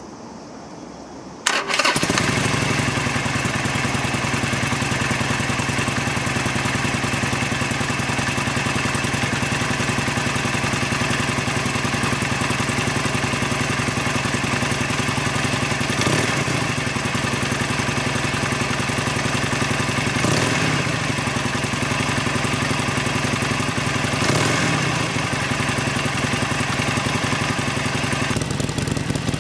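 A 2018 Harley-Davidson Sportster XL1200CX Roadster's air-cooled 1200 cc V-twin starts up about a second and a half in, then idles steadily. It gets three brief blips of the throttle later on.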